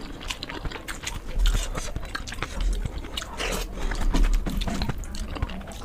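Close-miked chewing and mouth sounds of a person eating rice with egg curry, with irregular clicks and smacks.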